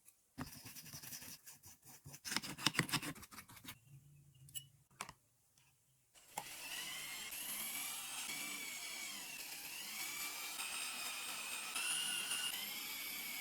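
Metal parts being worked by hand, with irregular scrapes and sharp clicks. About six seconds in, a small power tool starts and runs steadily, with a wavering high whine as it works the metal.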